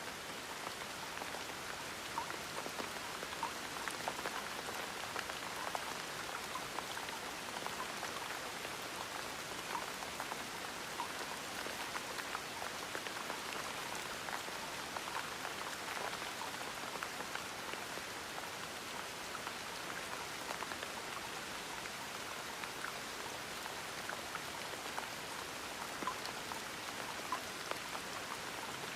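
Steady gentle rain: an even hiss with many small drops pattering on a surface.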